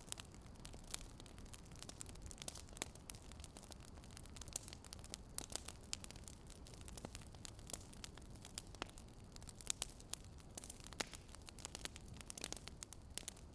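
Wood fire crackling: a low steady hiss broken by many irregular sharp pops and snaps, a few louder ones scattered through.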